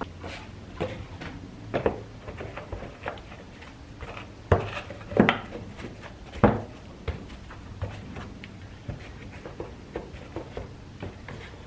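Plastic engine cover being put back on and pressed into place: scattered light clicks and knocks of hard plastic, with a few louder knocks around the middle.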